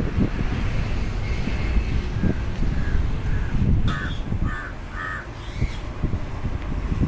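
A bird calling: a series of short calls, the clearest three close together about four to five seconds in, over a constant low rumble.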